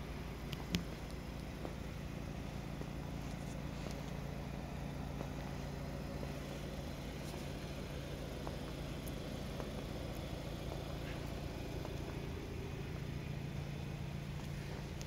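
Range Rover Evoque's 2.0-litre four-cylinder petrol engine idling with a steady, even hum.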